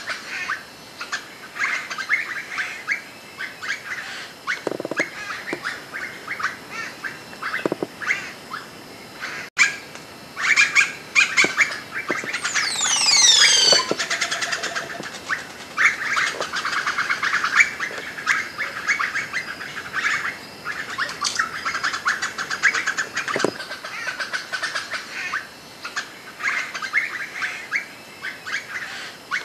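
Wild birds calling and chirping, with rapid chirps going on throughout and, about halfway through, a run of high notes that slide downward.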